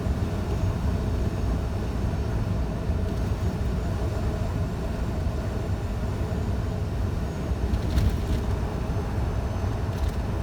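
Scania truck running steadily at driving speed: an even, low engine and road rumble.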